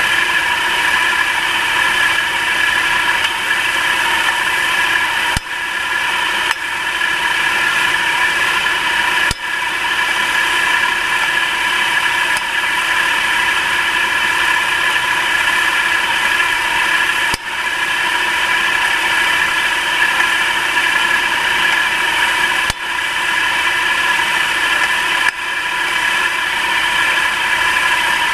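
Nissan March K13 engine running steadily at idle, heard close up with a constant whine over the mechanical noise. The owner reports it knocks under the hood until it warms up and the battery warning light flashes.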